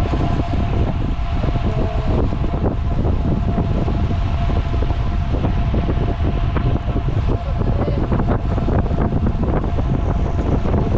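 Wind rushing over the microphone while riding a road bicycle, a loud, steady low rumble with a thin steady whine underneath.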